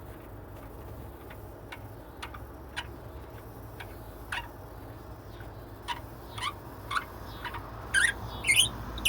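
A bolt squeaking as it is turned with a wrench: short, irregular chirps that grow louder and come more often over the last few seconds, over a steady low hum.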